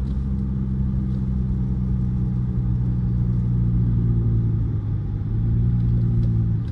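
Dodge car's engine heard from inside the cabin, running under steady acceleration, with a brief ease-off about five seconds in before it pulls again.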